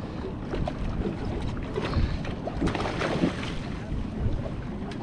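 Wind buffeting the microphone over the steady rumble of water and a small fishing boat, with a few scattered knocks.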